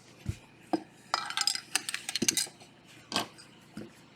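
Trading cards in hard plastic holders being picked up, shuffled and set down: a series of sharp plastic clicks and clatter, busiest between about one and two and a half seconds in.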